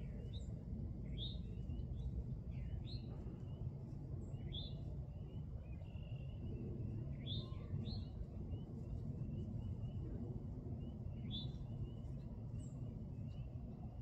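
Wild birds giving short, sharp chirps every second or two, over a faint string of quick, evenly repeated high notes and a steady low rumble.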